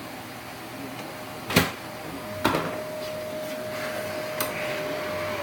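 Sharp clicks, then a small electric motor starting a steady whine about two seconds in, with a hiss building under it and more clicks over it.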